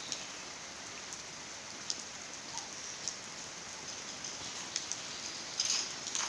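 Steady rain falling, with scattered sharper drops and a brief cluster of louder drips or splashes near the end.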